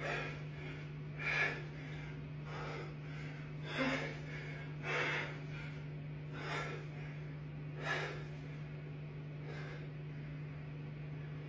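A person taking short, sharp breaths, about one every second and a half, over a steady low hum.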